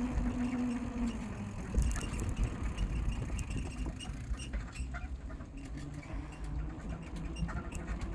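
Bicycle being ridden: a low rumble of wind and tyres on the microphone, with scattered clicks and rattles from the bike.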